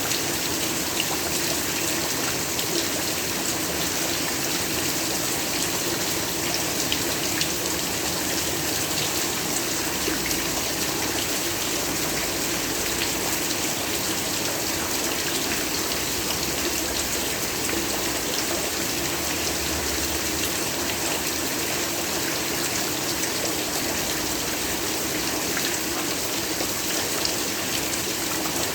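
Steady heavy rain with dense pattering of drops, an even rushing hiss without a break.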